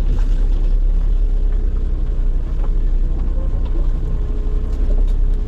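Steady low rumble of a car's engine heard from inside the car.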